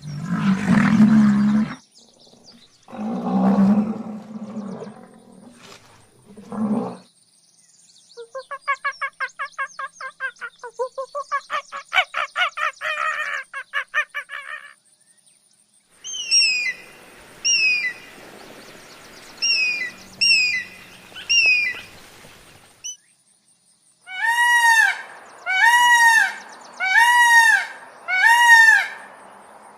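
A series of different animal calls, one after another. First come three low calls, then a long, rapid pulsed call, then short falling chirps in quick pairs, and last four rising-and-falling calls.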